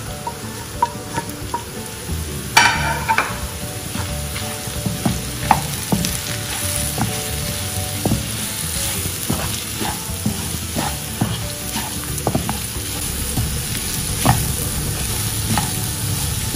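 Snake gourd pieces, urad dal, grated coconut and dried red chillies sizzling in coconut oil in a frying pan, stirred and scraped with a wooden spatula. There is a single louder knock about two and a half seconds in.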